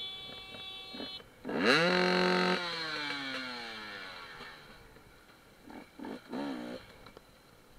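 Enduro motorcycle engine revving sharply for about a second, its pitch rising fast, then winding down slowly as the throttle closes. A couple of short, fainter revs follow near the end.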